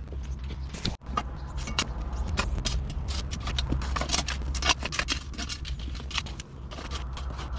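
Pit bike engine running, with clattering and rattling over it.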